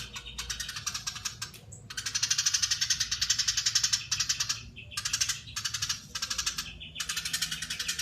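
Eurasian tree sparrow giving a long, dense, rapid chattering call (crecetan), in long bouts broken by brief pauses.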